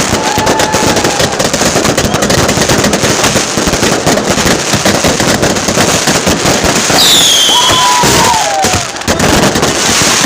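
Fireworks and firecrackers going off in rapid succession, a dense, continuous crackle of cracks and bangs. A brief falling whistle sounds about seven seconds in.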